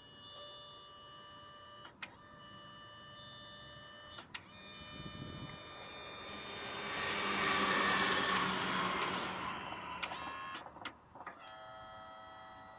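Small electric motor of a mini tractor whining steadily, with a few sharp clicks. A louder rushing noise swells up in the middle and dies away.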